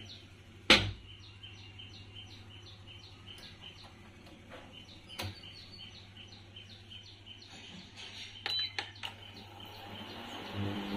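A bird chirping over and over, short high calls about three a second, which stop near the end. About a second in, a wooden casement window is pushed open with a sharp knock, the loudest sound here.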